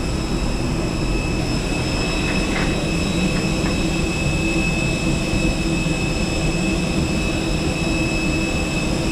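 Steady hum and high whine of an Airbus A320's cabin air system, heard inside the cabin while the plane is parked with its engines not yet started. A few faint clicks come about a third of the way in.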